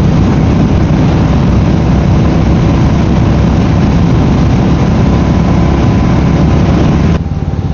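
Royal Enfield Meteor 350's single-cylinder engine running while riding, under heavy wind rush over the microphone. The wind and engine noise drop sharply about seven seconds in.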